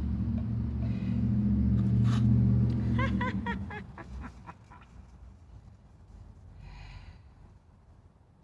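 A low, steady engine hum from a nearby motor vehicle that fades out about four seconds in, with a few brief high chirps just before it fades.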